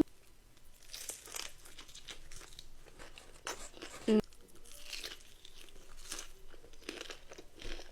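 Crunchy bites and chewing of fried food close to the microphone, a string of crisp crunches, with a short "mm" hum about four seconds in.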